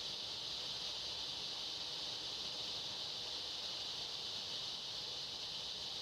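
Steady chorus of insects such as crickets, an even high-pitched buzz with no breaks.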